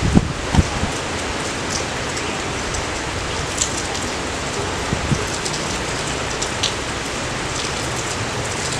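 Steady rain falling, an even hiss with scattered individual drop ticks, and a couple of low thumps in the first second.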